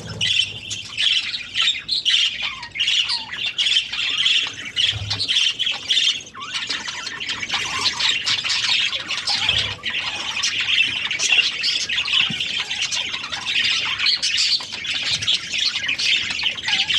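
Budgerigars chirping and chattering without a break, a busy stream of high squawks and tweets.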